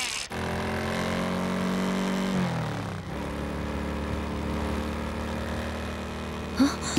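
Sport motorcycle engine running at a steady pitch, sliding down to a lower steady pitch about two and a half seconds in. A short sharp sound near the end.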